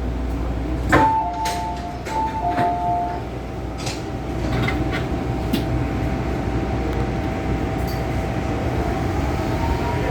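MTR M-Train electric multiple unit running on the Tsuen Wan Line: steady rumble of wheels on track under a steady motor whine, with a sharp knock about a second in and a whine that rises in pitch near the end.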